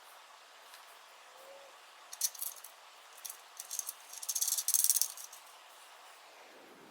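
Small hard parts rattling in three short bouts, about two, three and four-and-a-half seconds in, the last the longest and loudest.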